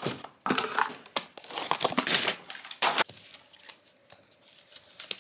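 IKEA woven wicker baskets being slid out of their cardboard packaging and handled: irregular crinkling, scraping and crackling of cardboard and wicker, with a few sharp clicks.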